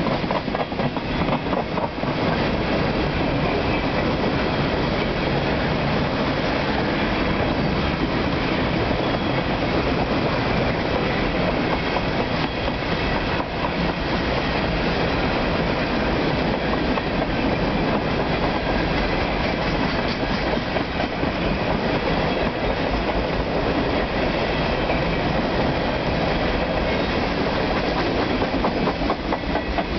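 Empty refrigerated boxcars of a freight train rolling past at speed: a steady loud rumble and rattle of steel wheels on rail, with wheels clicking over rail joints near the start and near the end.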